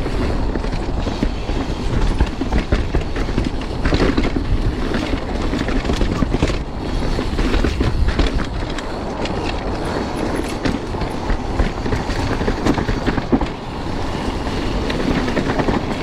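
Mountain bike rolling fast down a dirt trail: steady tyre noise with a constant rattle of clicks and knocks from the bike over rough ground, and a low wind rumble on the microphone.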